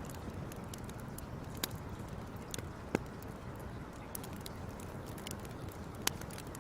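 Fire crackling: a steady low rumble under a scatter of small sharp pops, with three louder pops standing out.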